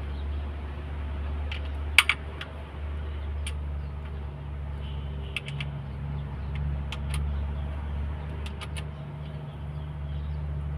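Scattered sharp metallic clinks and taps, with a loud double clink about two seconds in, over a steady low hum.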